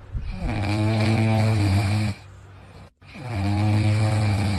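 A dog snoring loudly: two long, low, rattling snores, each about two seconds.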